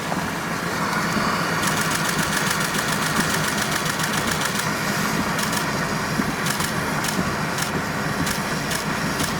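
Steady road and engine drone heard from inside a moving car. From about two seconds in, a rapid run of sharp ticks or taps sits over the drone.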